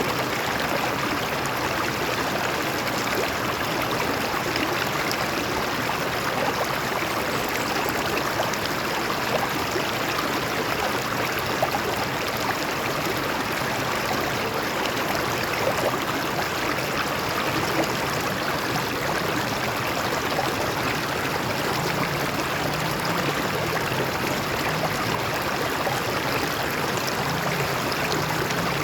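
A stream flowing over rocks, a steady rushing and gurgling of water.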